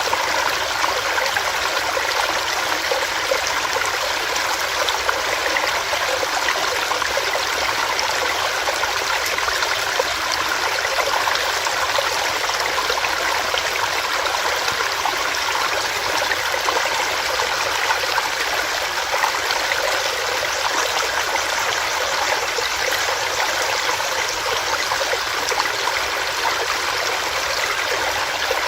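A small stream of water running over rocks, a steady, even rush with no breaks.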